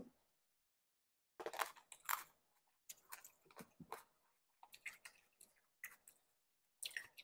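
Close-miked chewing of a juicy cherry tomato: a run of short, wet, crackly mouth sounds, starting about a second and a half in.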